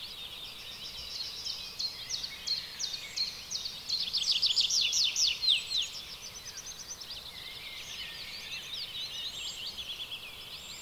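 Birds chirping and calling densely, many quick high notes overlapping, swelling to a louder burst of rapid down-sweeping chirps in the middle before settling back.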